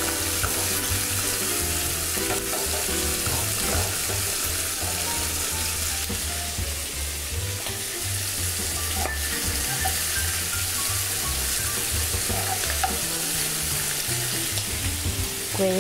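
Pieces of rabbit sizzling steadily as they brown in hot oil in a frying pan, turned over now and then with a utensil.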